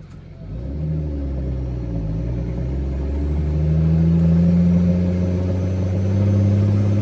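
Straight-piped Caterpillar C13 diesel of a Kenworth W900B dump truck pulling hard. The engine note comes up about half a second in and climbs slowly in pitch as the truck accelerates.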